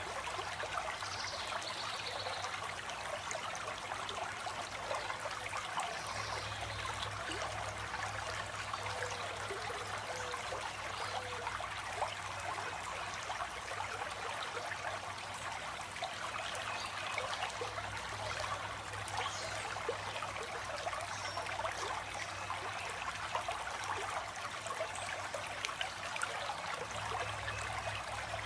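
A stream of water running steadily, a continuous babble of small splashes and trickles.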